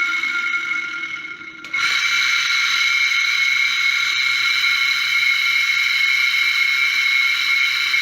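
Brastemp washing machine motor running with a steady, high-pitched whine from its badly worn bearing, the sign of a failed motor bearing. The whine fades briefly, then comes back suddenly about two seconds in.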